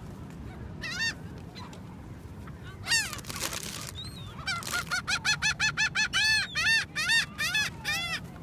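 Seagulls calling: a couple of single squawks, then from about halfway a fast run of repeated calls, several a second, until near the end, over a steady low hiss of wind and surf.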